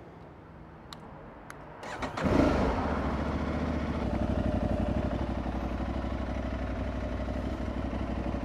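Aprilia Tuareg 660's parallel-twin engine being started: two faint clicks, then about two seconds in the engine catches with a brief flare of revs and settles into a steady idle.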